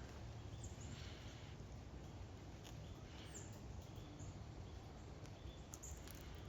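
Faint outdoor ambience: a steady low rumble with a few faint short chirps and clicks.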